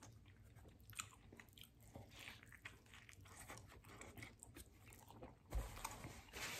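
A man quietly chewing a mouthful of burrito, with faint wet mouth clicks throughout and one louder soft thump about five and a half seconds in.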